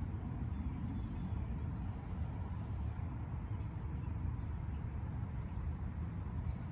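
2008 HMMWV M1123's diesel V8 engine idling, a steady low running sound.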